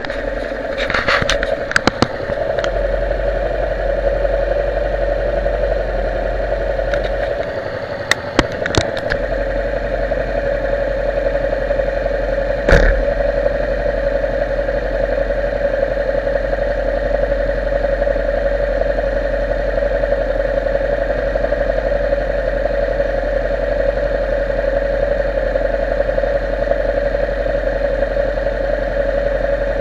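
Motorcycle engine running steadily. A few sharp clicks and knocks come near the start, a cluster about eight seconds in, and one more about thirteen seconds in.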